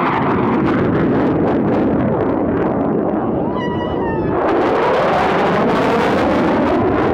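Blue Angels F/A-18 Super Hornet jet making a fast, low pass: loud, continuous jet noise that surges again about four seconds in.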